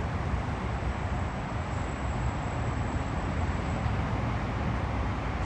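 Steady low rumble and hiss of city traffic noise, with no distinct events.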